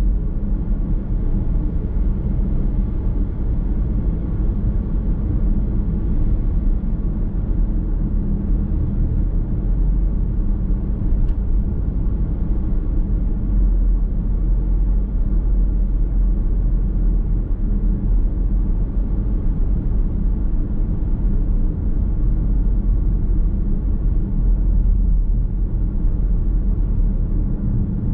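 A car's road and running noise heard from inside the cabin while driving: a steady low rumble of tyres and engine with no sudden events.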